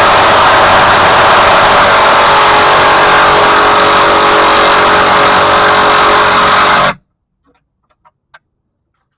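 Impact wrench hammering steadily on the transmission mount's 15 mm bolts, very loud, stopping abruptly about seven seconds in, followed by a few faint clicks.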